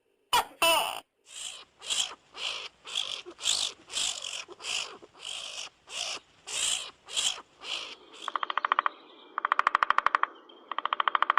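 Harsh animal calls repeated about twice a second, then a fast rattling pulse train in bursts near the end.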